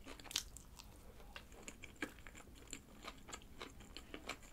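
A person chewing a soft chive bread filled with egg salad and ham, close to the microphone: faint, irregular small clicks and crunches of the mouth and the crisp chives.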